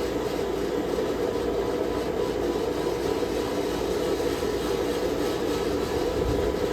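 A forge running with a steady, even rushing noise while the steel heats, with no hammer strikes.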